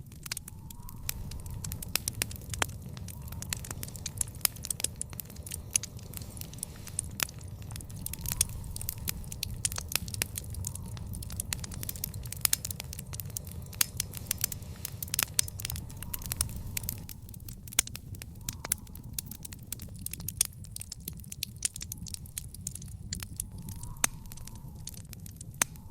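Backyard fire pit burning, with dense, irregular sharp crackles and pops over a low, steady rumble.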